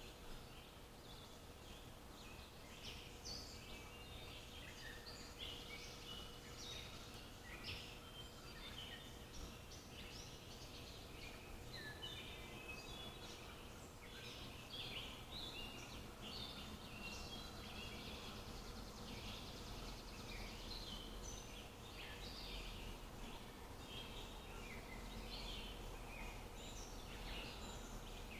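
Many small birds chirping and singing at once, a dense run of short, overlapping high calls, over a faint steady outdoor hiss.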